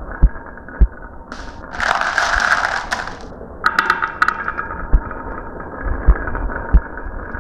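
Marbles rolling and rattling down a marble run track, with a spell of clattering about two seconds in and again near four seconds, and several sharp knocks as marbles drop and land.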